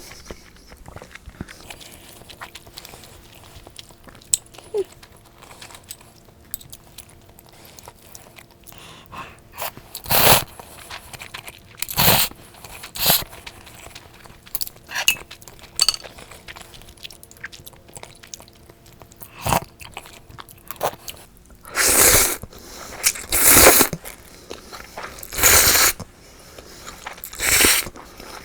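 Close-miked eating of crispy fried food such as tempura or croquette: a series of separate crunching bites with chewing in between, coming more often in the second half.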